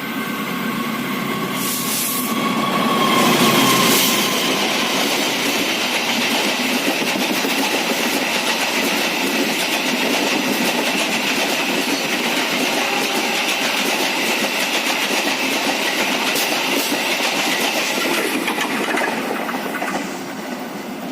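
Train running on the rails with the wheels clattering. A steady high-pitched whine runs over it from about three seconds in until near the end. The sound is loudest around four seconds in and drops away near the end.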